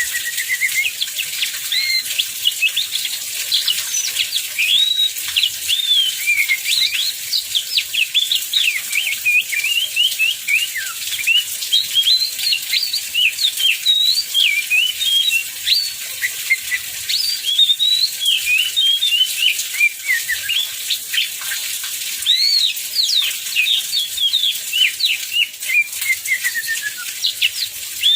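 Oriental magpie-robin (kacer) singing nonstop: a rapid, varied run of short whistled notes, glides and chirps. An even hiss of heavy rain runs behind the song.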